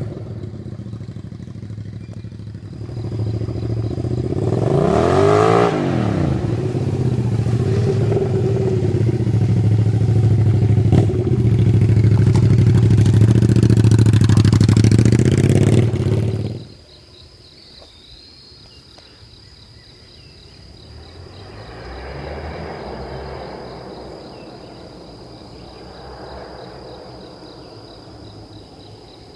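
2001 Suzuki SV650's 90-degree V-twin running loud through straight pipes with the muffler removed. It is blipped up and back down about five seconds in, then runs harder and louder until it cuts off abruptly just past halfway. Crickets chirp steadily after it stops.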